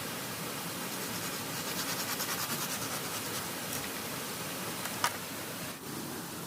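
Steady rushing water noise, with a quick run of about a dozen scratching strokes around two seconds in and a single sharp click about five seconds in.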